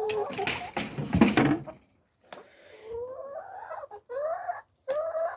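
Backyard hens calling: a noisy scuffle in the first second and a half, then three or four drawn-out, rising calls in the second half.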